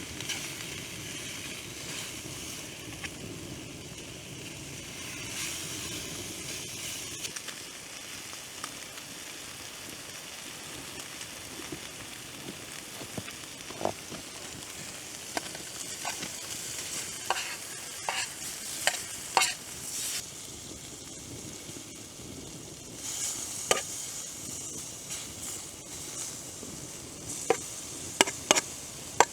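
Food sizzling in a pan over a campfire, a steady frying hiss. From about halfway through come sharp clicks and taps, several close together near the end.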